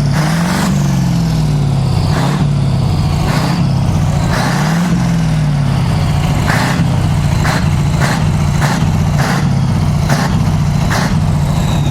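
Scania racing truck's diesel engine running steadily, revving up and back down twice. Repeated short sharp cracks sound over it.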